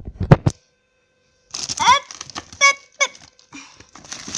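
Frozen food packages being handled in a freezer: a quick cluster of sharp clicks and knocks, then after a short pause a few short squeaks that rise in pitch, mixed with more clicks and rustling.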